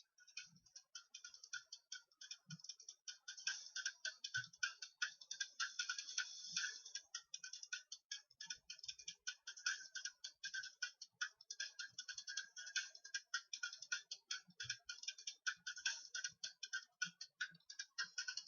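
Faint, rapid, irregular light clicking, like typing on a keyboard, with a few soft low thumps.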